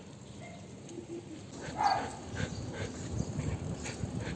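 A husky making short, repeated vocal sounds, about two a second, starting around a second and a half in, over a low rumble of movement.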